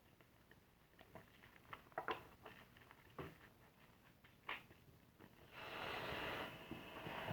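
Soapy car-wash sponge being lathered: faint scattered wet crackles and squishes of foam, then a denser, louder fizzing squish from about five and a half seconds in.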